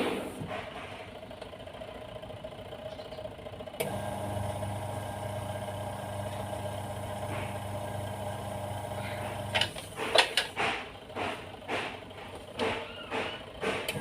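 Washing machine's electric motor humming steadily; it cuts out about half a second in and comes back on near four seconds. From about ten seconds a run of sharp knocks and clatters sounds over the hum. The spin is weak, which the repairer puts down to a worn drive belt.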